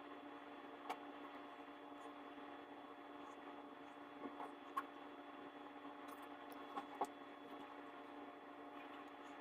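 A faint steady electrical hum with a few light clicks and taps, about five, as small nail tools are handled.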